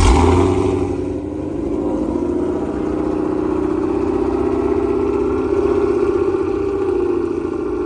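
A car engine blips loudly right at the start, then runs steadily at low revs with a deep rumble as the car pulls in.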